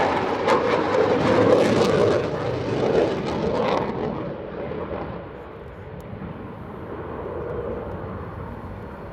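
Jet noise of a Panavia Tornado flying past. It is loud for about four seconds, then fades over the next second or so to a quieter, steady distant rumble.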